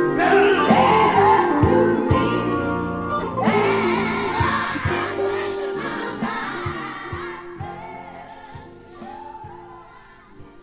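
Gospel group singing with band accompaniment and a steady drum beat, the recording fading out over the last several seconds as the song ends.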